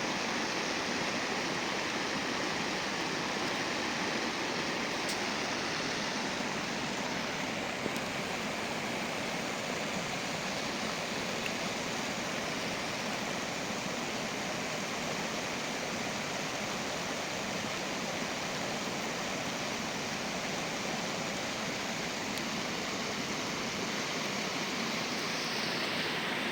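Small river flowing: a steady rushing of water.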